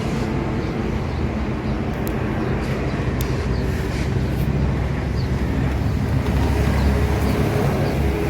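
A steady low rumble with a faint hum running through it, like a motor or road traffic, with a few faint high chirps and clicks.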